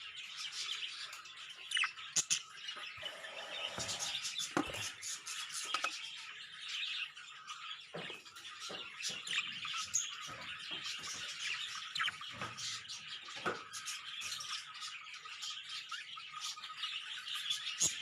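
Budgerigars chirping and chattering continuously, with scattered light clicks and taps.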